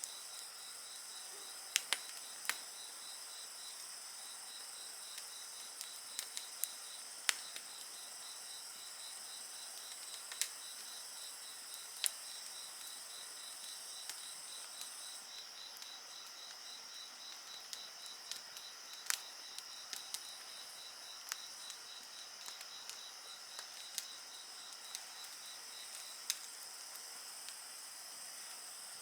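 Crackling wood fire with irregular sharp pops, over a steady chorus of night insects such as crickets, one of them trilling in a fast, even pulse. The highest-pitched insect call stops about halfway through.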